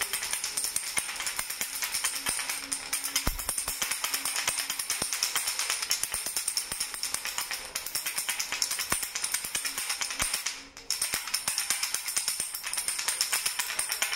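A baby's toy rattle shaken rapidly and continuously, a fast jingly clatter of beads. There is a brief pause about ten and a half seconds in.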